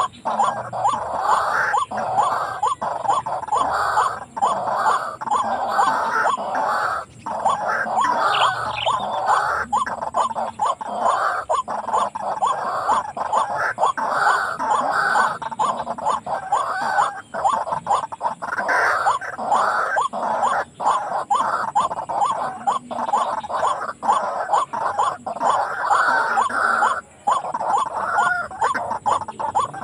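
White-breasted waterhen calling: a continuous run of rapidly repeated calls with no break.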